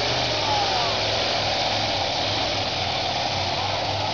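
Competition pulling tractor's engine, about 19 litres and 2,200 hp, running hard and steady under load during a pull.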